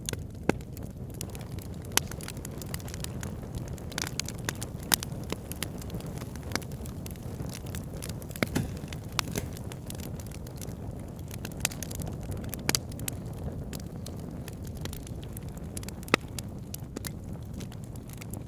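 Wood fire burning in a fireplace: a steady low rumble of flame with irregular sharp crackles and pops, a few of them louder.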